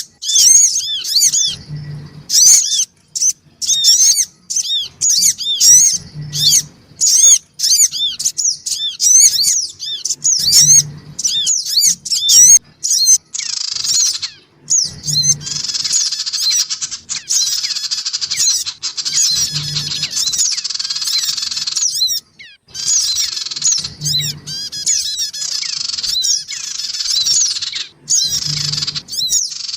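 Recorded lure calls of sogon (hill prinia), excited and noisy: rapid high chirps at first, then about a third of the way in a dense, unbroken chattering. A short low note repeats about every four and a half seconds.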